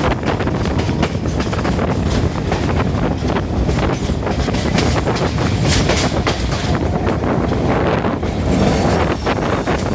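Passenger train carriage running along the track at speed, heard from its open doorway: a steady rumble of wheels on rail with frequent irregular clacks over the rail joints.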